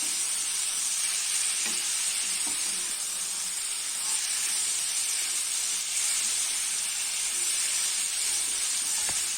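Chicken pieces coated in spice powders sizzling steadily in a pan as they are sautéed and stirred, while the chicken gives off its own water.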